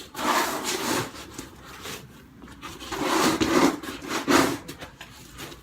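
Snow shovel scraping and pushing through snow in a few rasping strokes, each about a second long.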